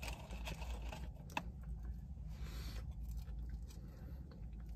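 Quiet chewing of McDonald's fries with the mouth closed, with faint clicks and soft rustles as fries are handled. A low steady hum runs underneath.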